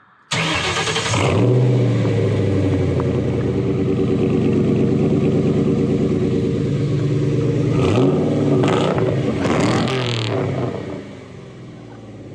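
Ford Mustang GT's 4.6 L two-valve V8, breathing through a freshly installed SLP Loudmouth cat-back exhaust, fires up about a third of a second in and runs at a steady idle. It is revved briefly twice near the end, then settles quieter.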